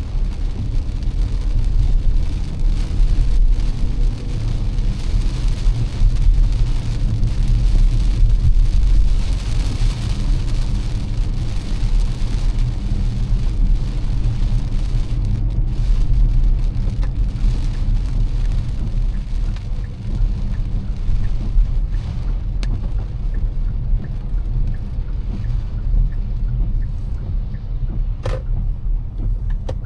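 A car driving through heavy rain: a steady low road and engine rumble under an even hiss of rain and tyre spray on wet pavement, the hiss swelling for several seconds before easing back.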